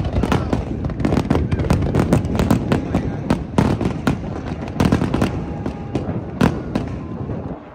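Fireworks bursting in a dense barrage, many sharp bangs in quick succession, with one especially loud bang about six and a half seconds in. The barrage thins out near the end.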